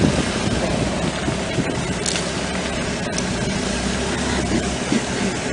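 4x4 vehicle's engine idling steadily.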